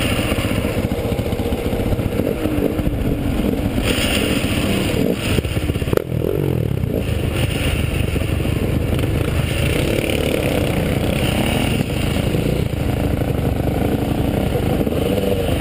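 Off-road motorcycle and quad bike engines running close by at idle, with throttle blips that rise and fall in pitch, and a single sharp click about six seconds in.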